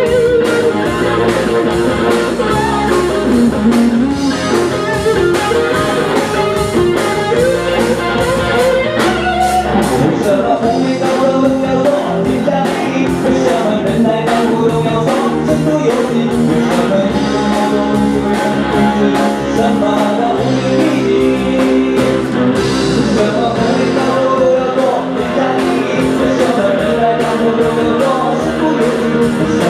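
Live band playing a Mandarin pop-rock song: guitars over a steady drum beat, with singing.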